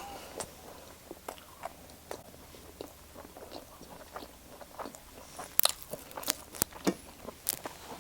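A person chewing a bite of cheesy pasta and garlic bread close to the microphone: wet mouth clicks and smacks, growing sharper and more frequent from about five and a half seconds in.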